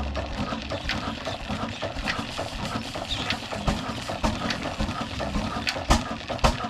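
An old single-cylinder Ruston diesel engine at a tubewell, running slowly with irregular knocks and clatter. Near the end it settles into a heavy beat of about two strokes a second.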